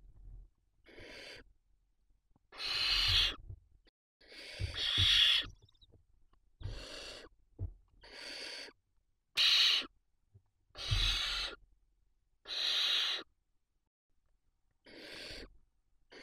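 Barn owl chicks giving their hissing begging calls, about ten in a row at irregular intervals, each lasting half a second to a second.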